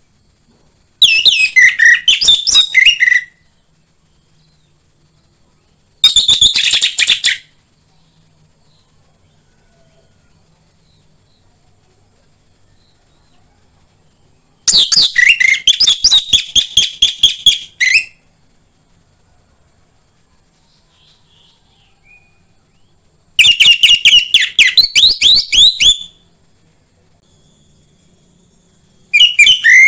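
Orange-headed thrush singing in loud phrases of rapid, fast-repeated notes, each one to three seconds long, with pauses of several seconds between them. A faint steady high hiss lies underneath.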